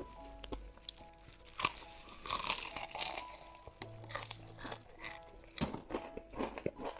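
Crisp bites and chewing of crispy fried chicken coming in several crunchy bursts, with soft background music underneath.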